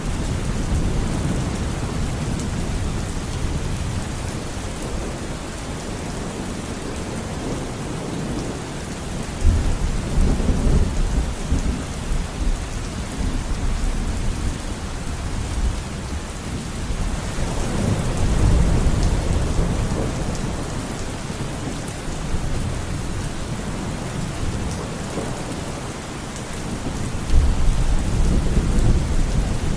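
Steady rain falling, with rolls of thunder rumbling up three times, about ten seconds in, past halfway and near the end.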